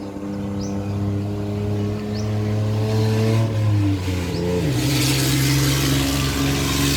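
A motor vehicle engine running steadily, its pitch dropping about two-thirds of the way through, as a rushing noise grows louder. A few faint short high chirps sound over it.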